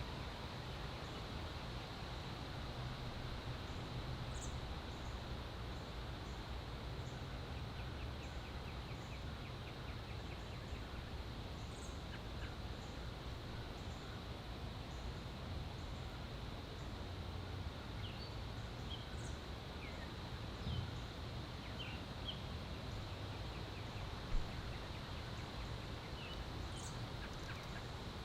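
Backyard songbirds giving short, high chirps every few seconds, with a quick run of ticking notes partway through. They sit over a steady low background rumble and a faint constant high whine, and there is one sharp click about 24 seconds in.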